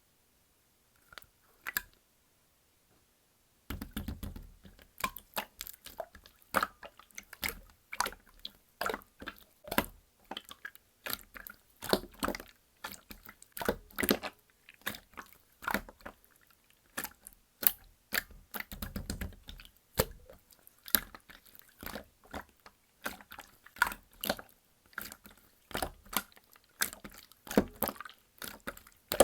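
Slime being squeezed and stretched by hand, making a quick irregular run of sticky clicks, pops and crackles that starts about four seconds in.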